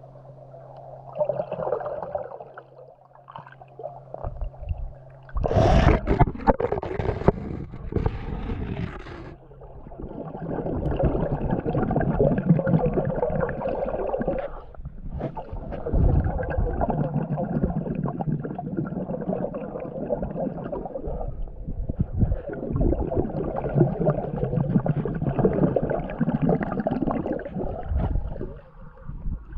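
Pool water heard underwater: gurgling and churning water as a swimmer moves, with a louder burst of bubbling about six seconds in. A low steady hum sounds at the start and stops about five seconds in.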